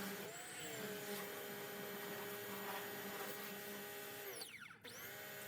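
Electric pressure washer motor running with a steady hum, its pitch dipping sharply and climbing back up near the end.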